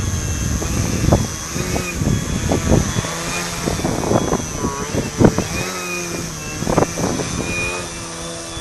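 Model aerobatic plane's engine and propeller droning in flight, its pitch rising and falling as the plane manoeuvres, with strong wind buffeting the microphone in repeated thumps.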